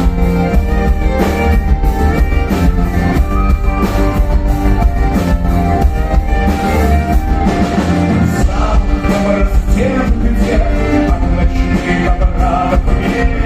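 Folk-rock band playing, loud and dense, with a steady beat of drum strikes over sustained instrumental lines.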